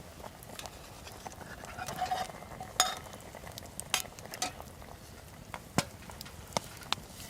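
Metal utensil stirring and clinking in a camp pot of stew, with scattered sharp clicks and a short ringing clink about two seconds in.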